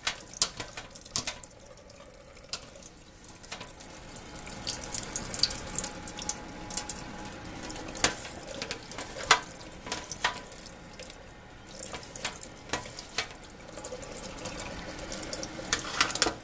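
Water running from a tap into a sink and splashing as a furnace filter is rinsed under it, with scattered sharp clicks and knocks throughout.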